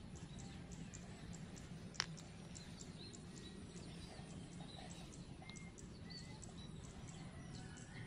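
Faint outdoor ambience with scattered small bird chirps over a low steady hum, and one sharp click about two seconds in.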